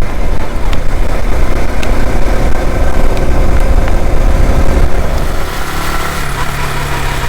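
Motorcycle running on the road, with heavy low wind rumble on the microphone; about five and a half seconds in the rumble drops and a steady engine hum comes through.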